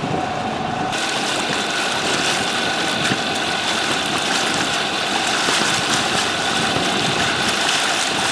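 Sailboat's inboard engine running steadily as she motors out of harbour, with water rushing along the hull.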